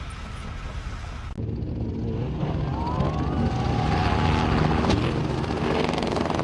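A motor vehicle engine running, growing steadily louder after an abrupt cut about a second and a half in.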